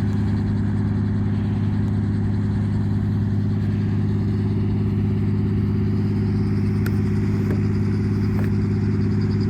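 A light aircraft engine running steadily at idle on the ground, warming up before take-off, with an even low hum that does not change in pitch or loudness.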